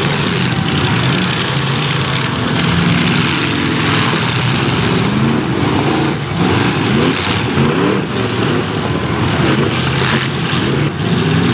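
Racing car engine sound effects revving, their pitch rising and falling again and again, over a dense steady noise, with a few brief knocks.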